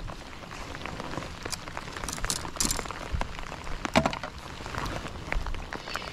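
Rain falling, with scattered drops tapping close by and one louder knock about four seconds in.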